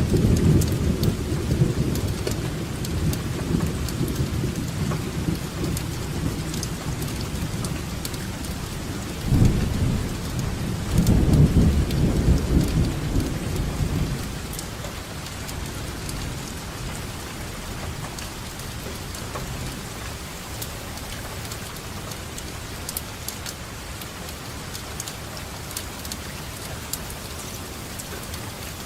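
Steady rainfall with rolling thunder: low rumbles at the start and again, loudest, about a third of the way in, then dying away about halfway through, leaving the hiss of rain with scattered raindrop ticks.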